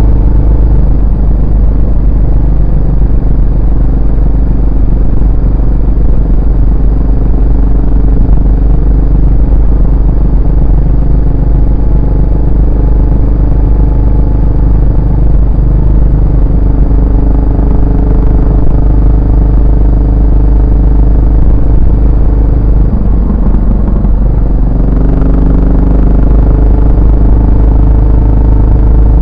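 Yamaha SR400's air-cooled single-cylinder four-stroke engine and exhaust while riding, with a steady deep rumble. Near the end the engine note drops away briefly, then picks up again at a different pitch, as with a gear change.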